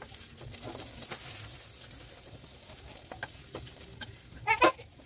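Paratha frying on a tawa over a gas flame, sizzling steadily as oil is spooned onto it, with a few light clicks. A short pitched call sounds near the end, the loudest moment.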